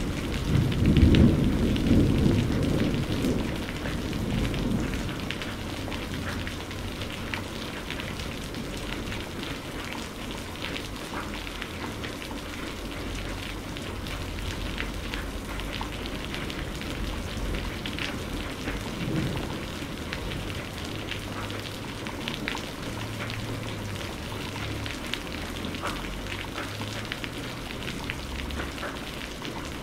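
Steady rain with scattered close drop ticks. A low rumble of thunder is loudest in the first few seconds and then fades away.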